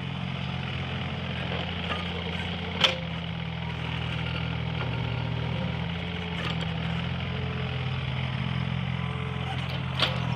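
Mini excavator's diesel engine running steadily under work, with a sharp knock about three seconds in and another near the end.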